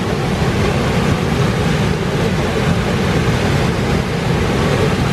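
Steady rush of whitewater rapids on a mountain torrent.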